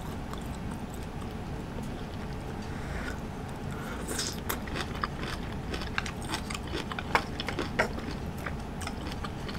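Close-miked eating: a bite of cooked cabbage leaf, then chewing with wet crunches and small mouth clicks starting about four seconds in, over a steady low hum.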